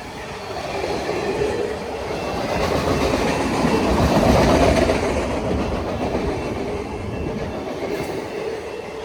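Union Pacific manifest freight train's cars rolling past, wheels clicking over the rail joints, swelling to its loudest about four to five seconds in and then easing off.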